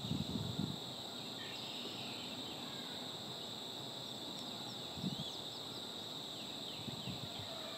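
Marsh background: a steady, high-pitched chorus, with scattered faint, short, falling bird chirps and a few brief low thumps near the start and about five seconds in.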